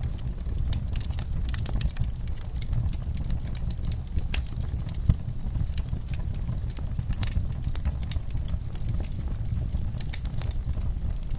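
Wood fire burning in a fireplace: a steady low rumble of flames with irregular crackles and snaps, and one louder pop about five seconds in.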